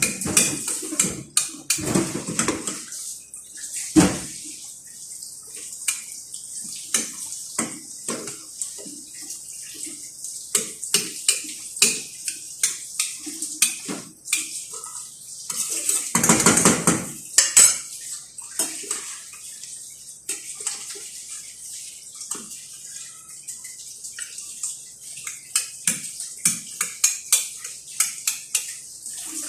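Dishes, pots and utensils clinking and knocking repeatedly in a kitchen, with a brief rush of water about sixteen seconds in.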